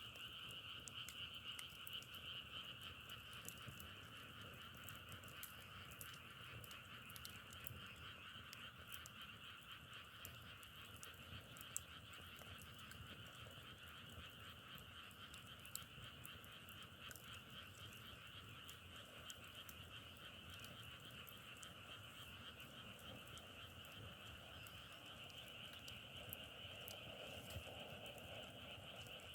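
A dense, steady chorus of many frogs calling together, with scattered faint clicks.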